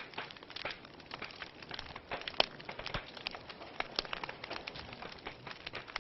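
Wood fire crackling in a fireplace: irregular snaps and pops over a soft hiss, with one sharper pop about two and a half seconds in.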